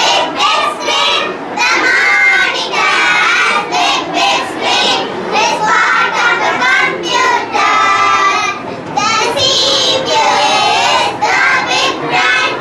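A group of children singing together, with some notes held long.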